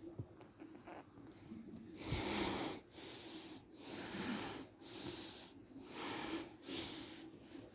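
Shiba Inu breathing and snuffling close up: a series of about five noisy breaths roughly a second apart, the first, about two seconds in, the loudest.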